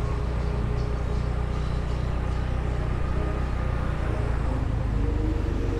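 Steady engine and road noise of a motorbike riding through town traffic, heavy in low rumble, with wind on the microphone.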